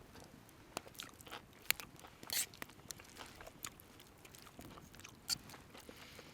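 A person eating: faint biting and chewing with scattered short crunches and clicks, the loudest about two and a half seconds in.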